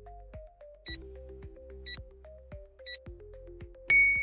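Soft background music with a short high tick-chime about once a second, a quiz countdown timer sound effect. Near the end a louder bell-like ding sounds and rings on.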